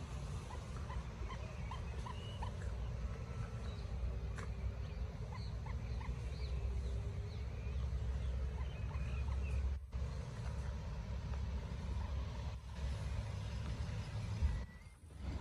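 Many short, high bird chirps scattered over a steady low rumble.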